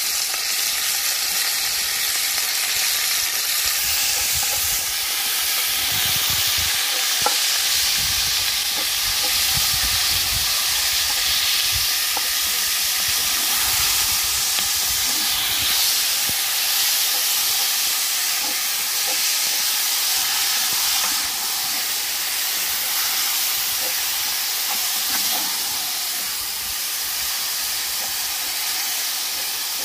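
Beef mince sizzling steadily as it fries in a hot cast iron pot, stirred all the while with a wooden spoon.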